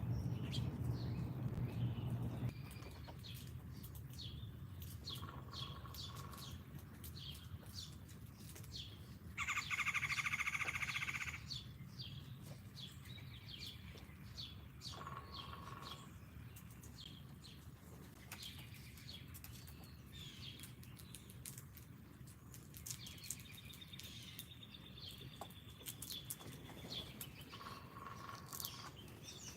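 Wild songbirds chirping repeatedly at a backyard feeder, with a louder, harsher call lasting about two seconds near the middle.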